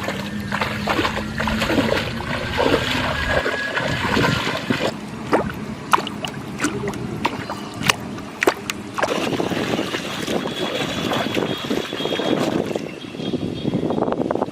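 Water splashing and trickling, with a run of sharp clicks and knocks in the middle and a low steady hum in the first few seconds.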